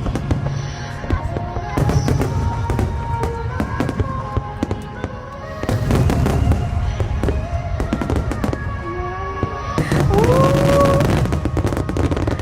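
Large fireworks display: shells bursting in rapid succession with dense crackling and deep rumbling booms. Over it plays a slow song with a sung vocal line.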